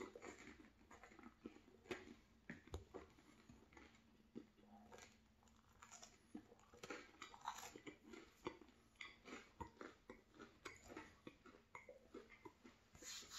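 Faint, close-miked chewing of a mouthful of cheese bagel with raspberry jam: soft, irregular wet mouth clicks and smacks.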